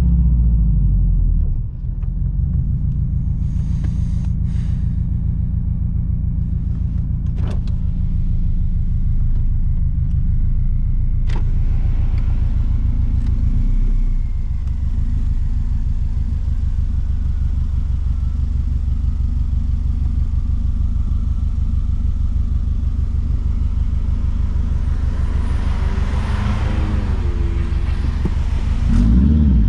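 Straight-piped 2006 Subaru WRX STI's turbocharged flat-four exhaust. It is loud at first, drops off about two seconds in, then holds a steady low note with an even pulse for most of the time. It picks up again as the engine revs near the end.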